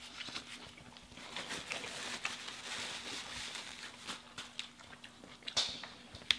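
Close-miked chewing of a cheeseburger and fries: soft mouth sounds with many small clicks, and one sharp click near the end.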